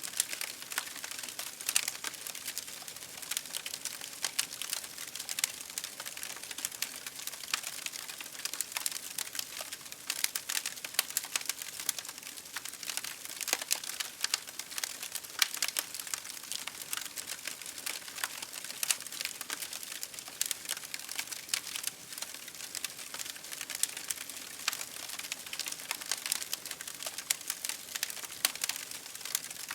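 Campfire burning with dense, irregular crackling and popping over a steady hiss.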